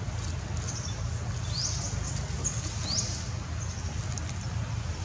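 Two or three short, high chirps, each rising sharply, about a second apart, from a bird calling, over a steady low rumble.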